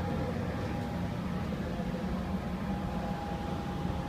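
Steady low hum inside an Amtrak Pacific Surfliner double-decker passenger car, with a faint, even whine on top: the car's air conditioning and electrical equipment running.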